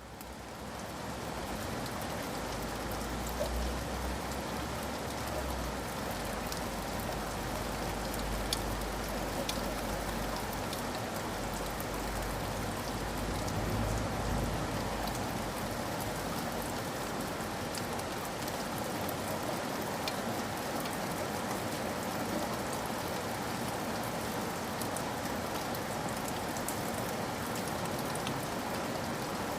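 Steady rain with individual drops ticking, fading in from silence at the start. A low rumble sits underneath through the first half.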